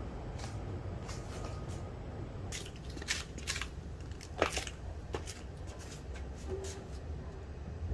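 Household handling sounds in a small room: a scatter of short rustles and clicks, the sharpest about four and a half seconds in, over a steady low hum.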